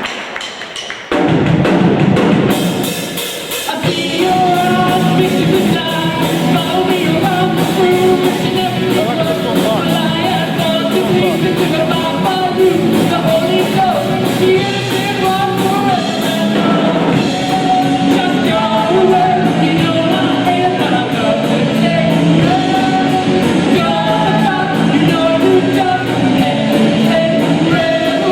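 A rock band playing with a lead singer over drums, starting suddenly about a second in and holding a steady beat.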